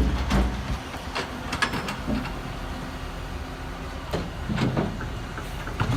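Garbage truck engine running, with a series of sharp metallic clanks and knocks, about seven over the few seconds.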